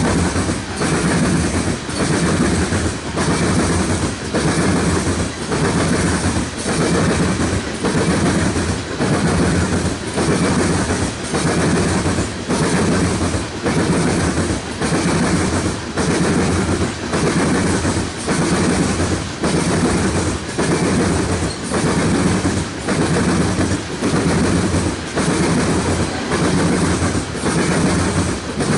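Freight train cars rolling past, their wheels clacking over the rail joints. The sound is loud and pulses in an even rhythm about once a second.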